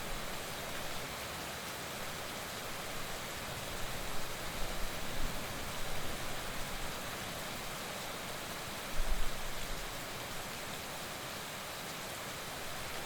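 Heavy rain falling in a steady hiss, with a few short low rumbles rising under it about four seconds in and again about nine seconds in.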